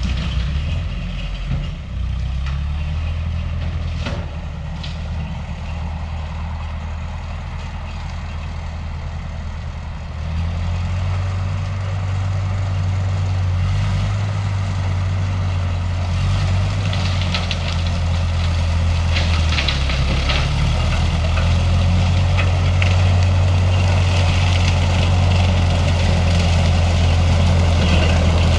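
Old Ferguson tractor engine running steadily, getting louder about a third of the way in, with bursts of rattling and clattering a little past the middle.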